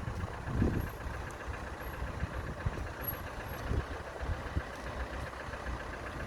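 Road traffic: motor vehicle engines running nearby as a steady low rumble, with a couple of brief louder swells.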